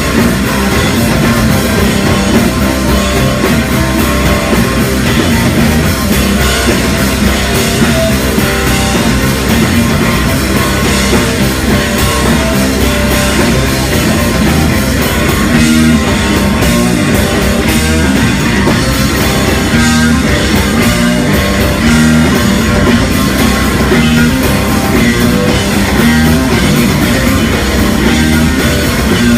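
Rock band playing live and loud: electric guitar and drum kit in a dense, continuous wall of sound.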